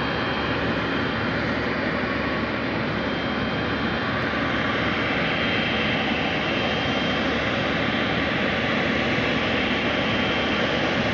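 Boeing 777-300ER's GE90 jet engines running, a steady, even rush of noise with a faint high whine held throughout.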